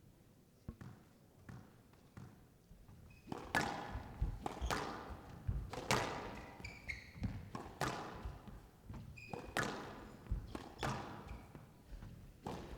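Squash rally: sharp knocks of the ball off rackets and the court walls, coming every half second to a second from about three and a half seconds in, after a few faint knocks.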